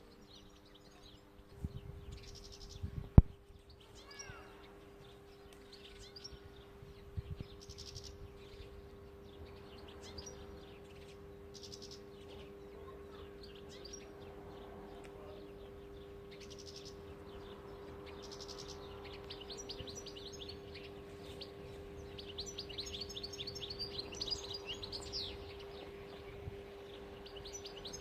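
European goldfinch calling and twittering in short high chirps, building to a fast run of twittering near the end. A single sharp click comes about three seconds in.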